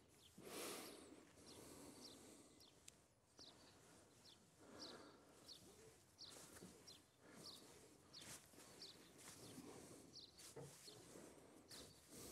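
Near silence with faint background noise, over which a small bird chirps again and again, one short high call roughly every half second to second. A few soft rustles sound in between.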